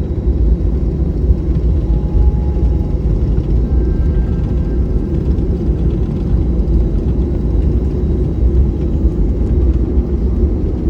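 Boeing 737 cabin noise while taxiing after landing: a steady, loud low rumble from the engines at idle and the airframe.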